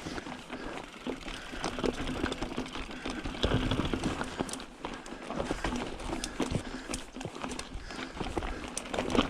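Mountain bike ridden over a rough, muddy dirt trail: frame and drivetrain rattling, with many sharp knocks and clicks from the bumps, loudest about three and a half seconds in and again near the end.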